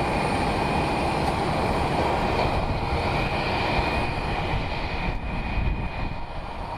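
Airplane engine noise: a steady rushing sound with a high whine, getting slightly quieter in the last couple of seconds.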